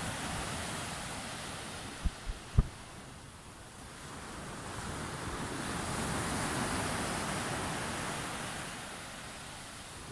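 Sea waves washing onto the shore; the surf swells to a peak about six seconds in, then fades. Three short low thumps of wind on the microphone come about two seconds in.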